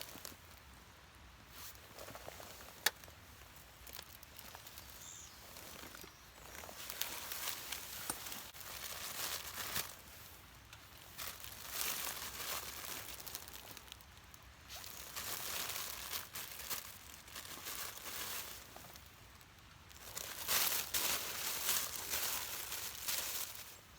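Rustling and crinkling in several irregular bursts, the loudest near the end.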